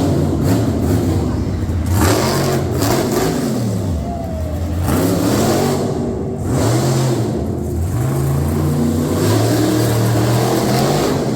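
A vehicle engine revving, its pitch falling and rising again several times.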